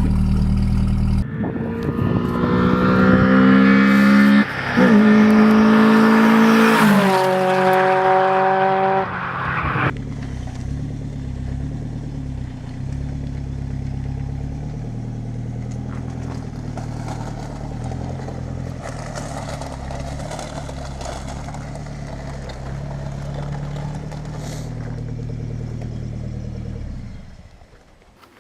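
Datsun Sunny truck's 1.2-litre four-cylinder engine, just cold-started, idling, then pulling up in three rising runs with sudden drops in pitch between them, as in accelerating through the gears. From about ten seconds in it runs more steadily at a lower pitch, then fades out near the end.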